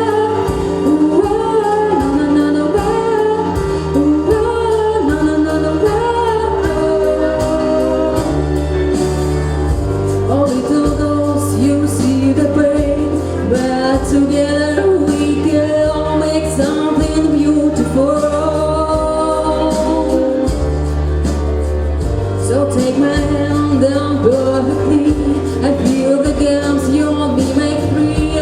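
A female voice singing a slow melody over instrumental accompaniment with sustained low notes; percussion hits join about nine seconds in.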